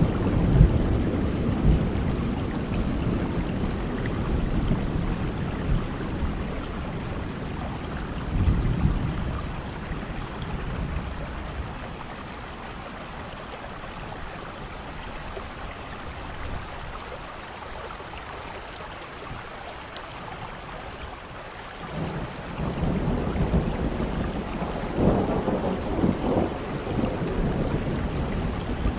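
Steady rain with rolling thunder: a low rumble fading over the first few seconds, a short one about nine seconds in, and a longer one building from about twenty-two seconds in.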